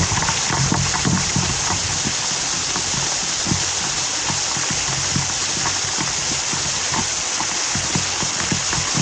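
Waterfall water rushing and splashing steadily, a constant bright hiss with small spatters.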